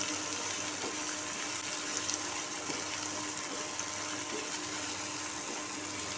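Chopped tomatoes and onions sizzling steadily in hot oil in a non-stick kadhai, stirred with a spatula, with light scrapes and taps now and then: sautéing until the tomato turns soft.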